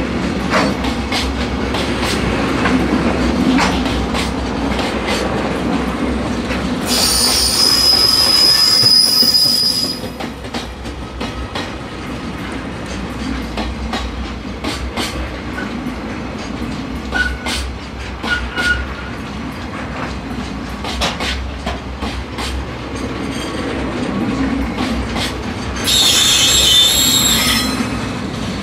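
Container freight wagons rolling past steadily, their wheels clattering over rail joints. Twice, about seven seconds in and again near the end, the wheels let out a high-pitched squeal lasting two to three seconds.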